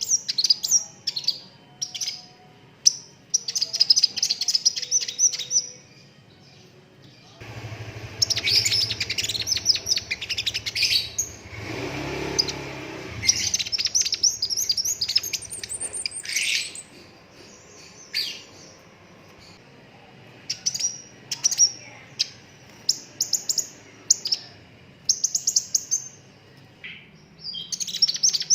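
Sunbird singing in bursts of very rapid, high trilled notes lasting one to three seconds each, with single sharp chirps between the bursts.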